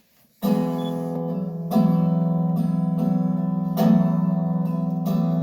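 Music starts about half a second in: guitar chords strummed and left to ring, with a new strum every second or two.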